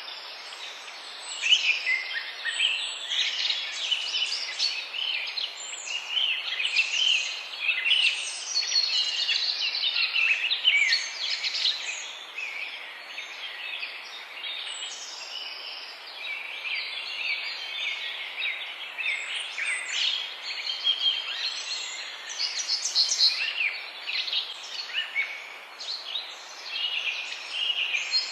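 A chorus of songbirds singing and chirping, many quick overlapping high calls throughout, over a steady background hiss.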